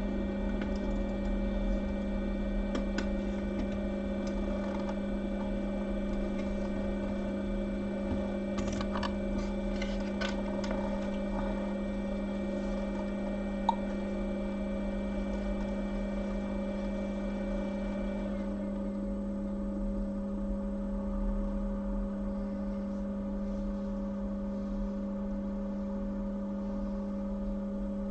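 Steady electrical hum with several even overtones and a few faint clicks, one sharper click about halfway through; the higher overtones fade out about two-thirds of the way in.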